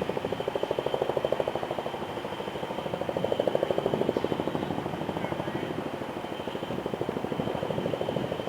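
Diesel locomotive engine running with a fast, even pulsing beat that swells and fades in loudness.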